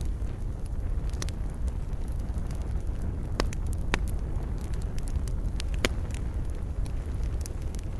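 Campfire burning: a steady low rumble of flames with scattered sharp crackles and pops from the burning wood, the loudest few around three and a half, four and six seconds in.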